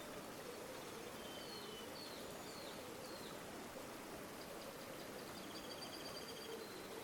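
Steady rush of flowing river water, with faint high bird chirps about a second in and a short rapid trill of repeated notes in the second half.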